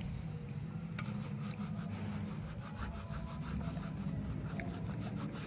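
Rubbing and scrubbing leftover polarizer-film glue off the glass of an LCD navigation screen, in rapid back-and-forth strokes, several a second. A steady low hum runs underneath, and there is one sharp click about a second in.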